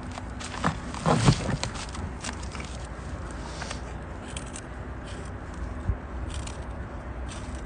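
Wood fire crackling with scattered pops, and a few heavier knocks of wood about a second in, the loudest of them a dull thud.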